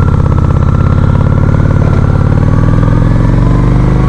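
Honda Shadow 750 ACE's V-twin engine running while riding, a steady, evenly pulsing exhaust note.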